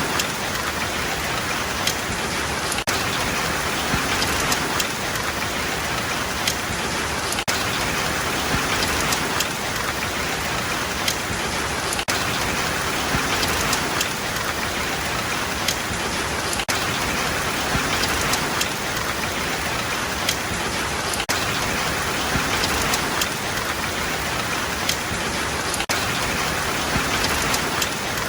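Steady rain falling, an even hiss of many drops, with sharper single drips ticking now and then.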